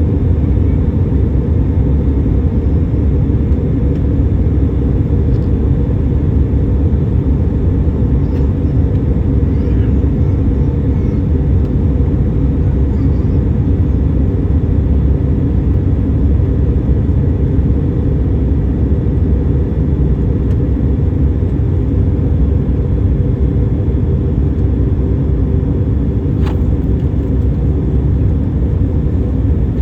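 Steady low roar of a Boeing 737 airliner in flight, engine and airflow noise heard from inside the cabin. A faint click comes near the end.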